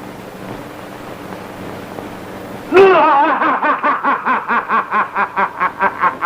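Faint steady hiss of an old film soundtrack, then, nearly three seconds in, a sudden loud burst of laughter that breaks into rapid repeated "ha"s, about four a second.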